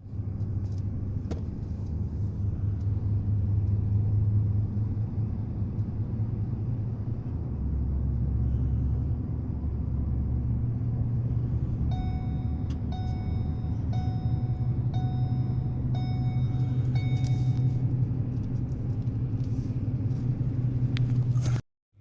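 Steady low rumble of heavy road traffic from a truck convoy. About halfway through, a horn sounds in a string of short, evenly spaced honks for about five seconds.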